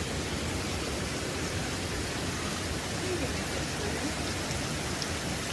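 Steady rushing of a flowing creek, an even wash of water noise, with a faint voice briefly about three seconds in.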